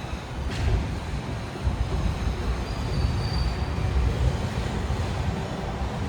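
Disneyland parking tram running with passengers on board: a steady low rumble of the tractor and its rolling wagons, with a short click about half a second in and a faint brief high whine about three seconds in.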